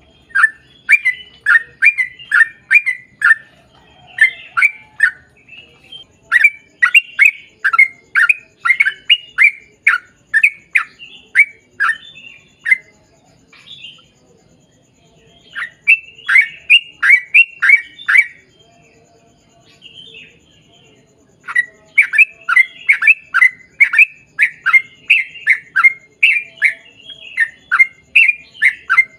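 Yellow-vented bulbul (trucukan) singing a long, fast run of loud, bubbling notes, about two to three a second. The song comes in several long bursts with short breaks.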